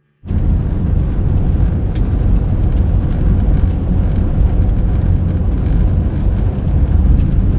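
Campervan driving along: a loud, steady rumble of engine and road noise that starts suddenly.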